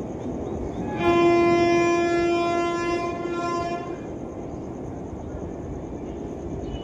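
Electric locomotive horn, likely the WAP4 hauling the Haripriya Express, sounding one long blast of about three seconds over the steady rumble of the moving train.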